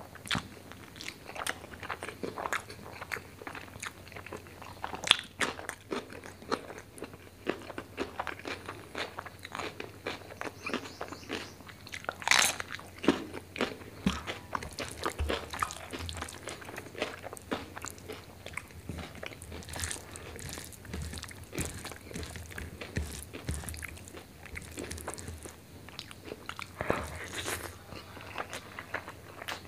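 Close-miked chewing and mouth sounds of a man eating rice with chicken liver and gizzard curry by hand: a steady run of wet smacks and sharp clicks, the loudest about five and twelve seconds in.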